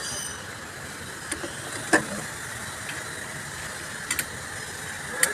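Steady workshop background noise with a few sharp clinks of tools on metal engine parts. The loudest comes about two seconds in, a quick double clink near four seconds, and another near the end.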